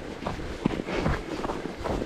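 Running footsteps at a steady stride, about three steps a second, with low wind rumble on the microphone.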